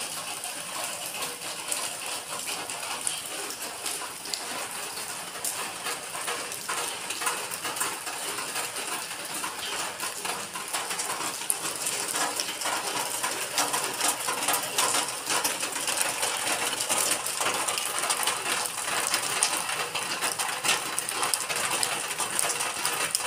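Heavy rain falling steadily, with many sharp ticks of drops striking nearby surfaces; the ticks grow denser and louder in the second half.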